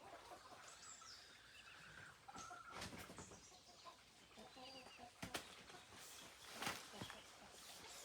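Chickens clucking faintly, with a few scattered sharp knocks, the loudest near the end.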